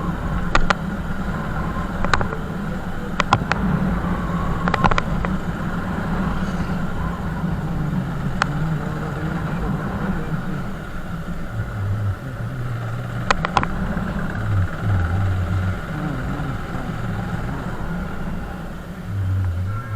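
Motorcycle engine running steadily while riding along a road, with several sharp clicks in the first half.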